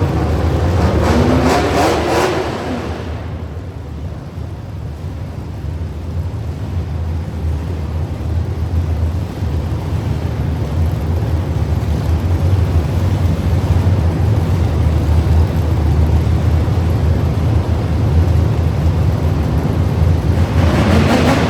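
Truck engine revving, its pitch climbing over the first few seconds, then a steady low engine rumble that slowly grows louder, with another rising rev near the end.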